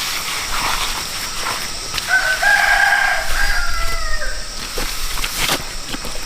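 A rooster crowing once, a drawn-out call starting about two seconds in and lasting a couple of seconds, over a steady background hiss with scattered knocks and scrapes.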